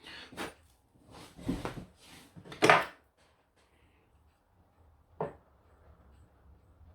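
A hand tool scraping at plaster of Paris on a slate clock case, four or five short scrapes in the first three seconds, then a single sharp click a little after five seconds.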